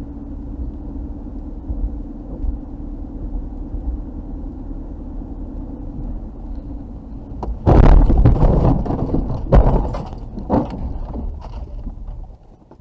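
Steady in-car engine and road noise. About 7.5 seconds in comes a sudden loud vehicle collision crash, followed by several more sharp impact knocks over the next few seconds.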